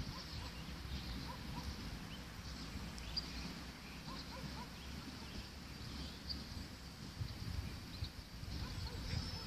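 Small birds chirping briefly now and then over a low, steady outdoor rumble.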